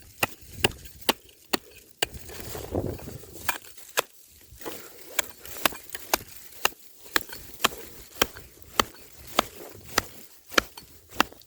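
Hatchet chopping into ice, sharp strikes about two a second, reopening an ice-fishing hole that froze over in the night.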